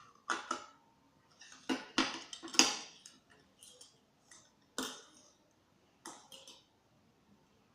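A series of sharp, irregular clicks and clinks of small hard objects being handled, the loudest cluster a couple of seconds in.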